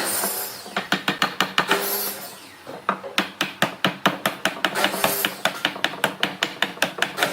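Rapid series of sharp knocks from hand-tool work on wood, about five strikes a second, with two short hissing scrapes in between.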